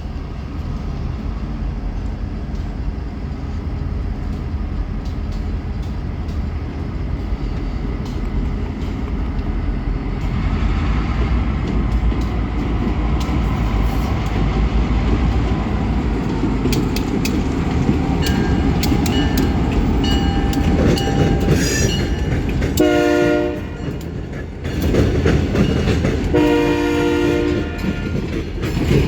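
Diesel locomotives rumbling past with rail clatter, the rumble building about ten seconds in. Near the end the locomotive's multi-chime air horn sounds twice, a short blast and then a longer one.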